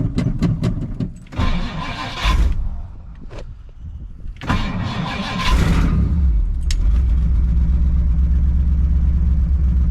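1959 Edsel Ranger engine being cranked by the starter, catching briefly and dying, cranked again, then firing and running steadily. It runs through true dual exhaust with old Cherry Bomb mufflers and a freshly fitted driver's-side exhaust manifold.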